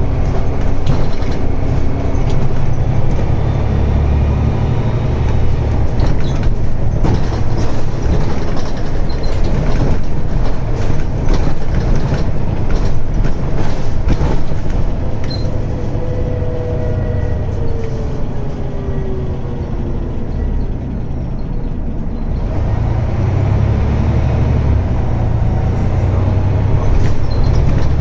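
Scania N94UD double-decker bus under way, its diesel engine pulling hard, then a stretch of rattling and clatter with a falling whine about two-thirds of the way through as it eases off, before the engine pulls strongly again near the end.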